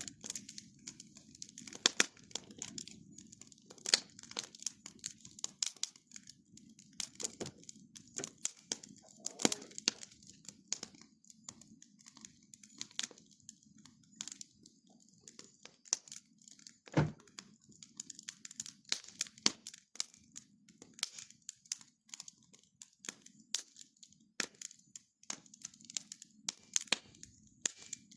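Wood bonfire crackling: irregular sharp pops and snaps, several a second, over a low steady rush.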